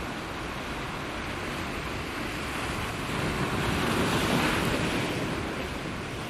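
Sea surf washing onto a beach, a steady rush of waves that swells to a peak about four seconds in and then eases off.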